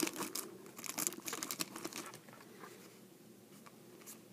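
Trading-card pack wrapper crinkling and cards rustling as they are handled, dying down after about two seconds to a few faint ticks.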